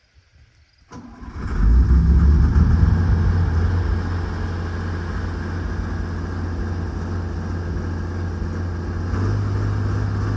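Heavy-equipment diesel engine starting about a second in, catching at once and settling into a steady run, its note stepping up slightly near the end.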